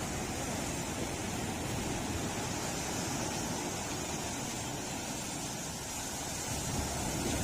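Ocean surf washing on a beach: a steady rush of waves with no distinct crashes.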